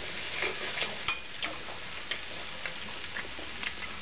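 Fried cabbage and Spam sizzling in bacon grease in a skillet as a spoon stirs it: a steady sizzle with scattered light clicks and pops of the spoon against the pan.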